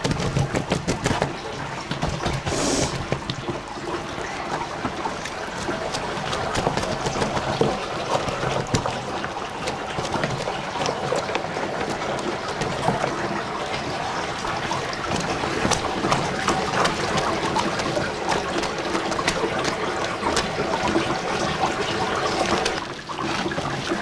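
Liquid splashing and trickling steadily, with many small splashes: soy curds and whey being ladled into the tofu mould and the whey draining off.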